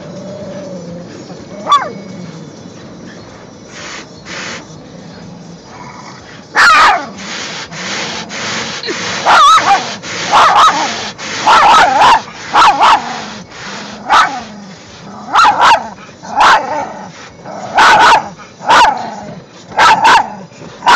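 Chihuahua barking frantically and repeatedly, frightened by the car wash: a short rising whine about two seconds in, then loud sharp barks about once a second from about a third of the way in, over steady noise.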